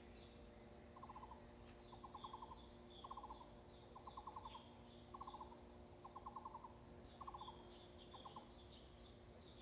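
Faint dawn birdsong: high chirps throughout, and a short, rapidly pulsed lower call repeated about once a second, eight times, over a faint steady hum.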